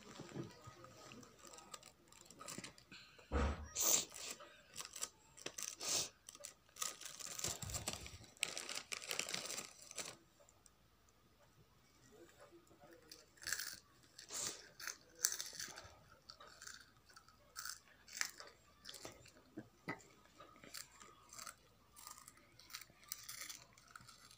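A small child crunching and chewing Kurkure snack sticks, with the plastic snack packet crinkling. It comes in irregular bursts, busiest in the first half, then sparser.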